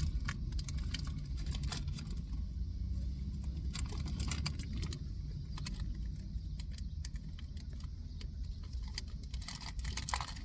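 A soft cookie sandwich with a cream filling being handled, bitten and chewed, giving scattered small clicks and crinkles over a steady low rumble.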